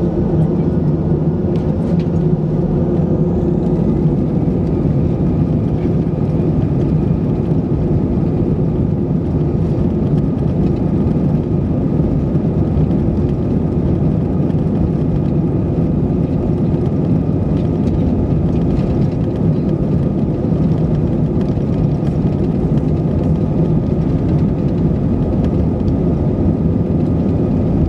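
Airbus A319-111's CFM56 jet engines running steadily, heard inside the passenger cabin as a loud, even rush with a steady hum of several tones.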